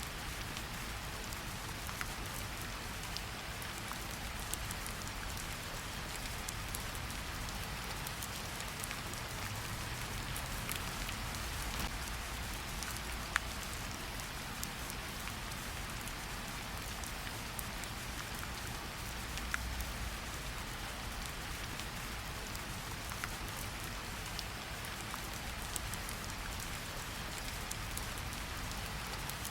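Steady rain falling on a surface, an even hiss with scattered sharper drop ticks and a low rumble underneath.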